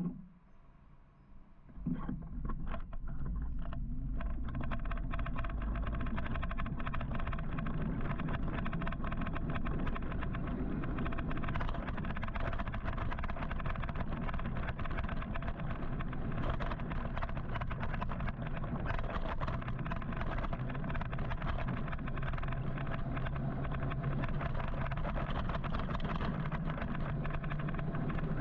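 Wind and road noise from riding an electric motorcycle through city traffic, starting about two seconds in and then running steadily, with a low hum underneath.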